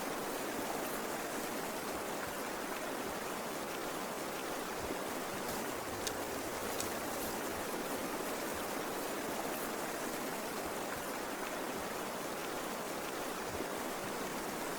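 A steady, even rushing noise with no tones in it, like a water or wind ambience bed, and a faint click or two about six seconds in.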